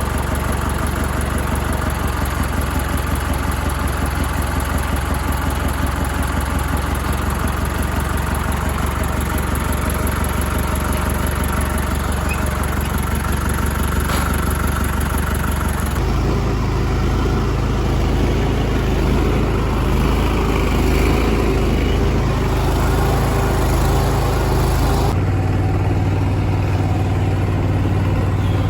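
An engine running steadily. Its tone changes abruptly twice, about 16 seconds and about 25 seconds in.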